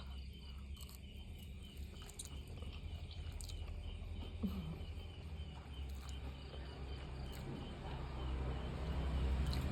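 Insect chirping steadily in a fast, even pulse of about four to five chirps a second, with a few faint clicks. A low rumble swells near the end.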